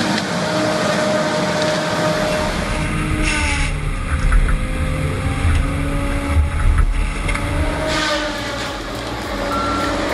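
Engine of a heavy forestry machine running steadily, with heavy low thumps and rumbles about halfway through as it works.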